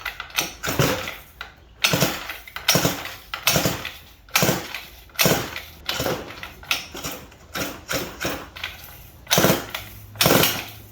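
50cc pit bike engine being pull-started again and again, a quick yank on the recoil cord about once a second, each a short rasping whirr, and the engine does not catch.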